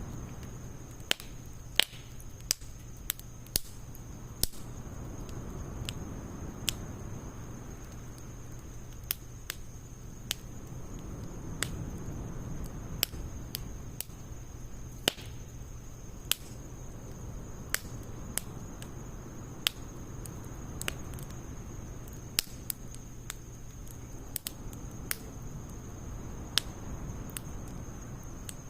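Wood campfire of logs and pine needles crackling: irregular sharp pops, about one a second, over a low steady rush of burning.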